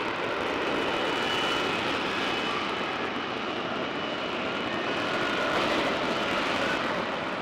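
Aircraft flying past, its engine noise steady throughout, with a faint high whine.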